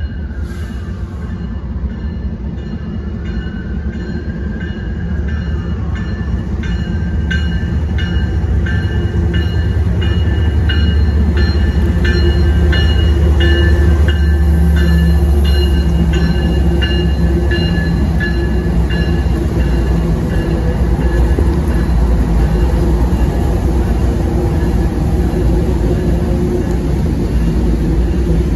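A CN freight train passing, with a lead of GE diesel locomotives (an ES44DC in front) rumbling by, loudest about twelve to sixteen seconds in, then the freight cars rolling on steadily. A bell rings about twice a second through the first two-thirds, then fades out.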